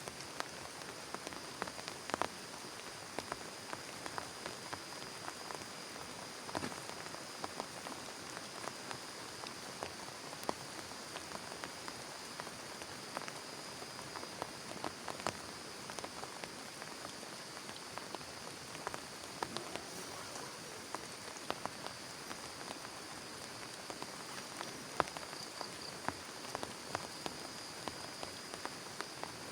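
Steady rain falling, with many separate sharp drop hits on a surface.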